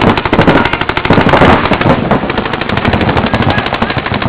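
Paintball markers firing in rapid, overlapping strings of shots.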